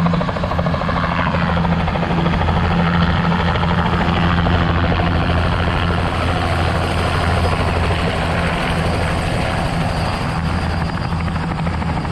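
A large engine running steadily and loudly, a low hum with a fast, even pulse.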